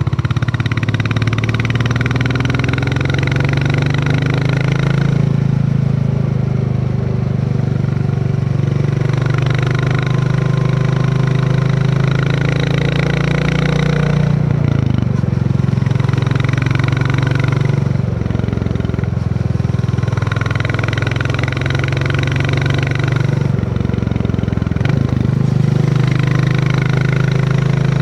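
Royal Enfield Classic 350 single-cylinder engine running under way, its steady thump rising and falling with the throttle. The note dips and shifts briefly several times.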